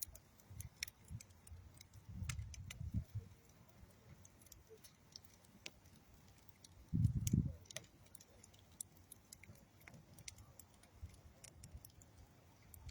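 Campfire of old railroad wood and dead tree wood crackling, with sharp irregular pops scattered throughout. A low rumble comes about two seconds in and again, louder, about seven seconds in.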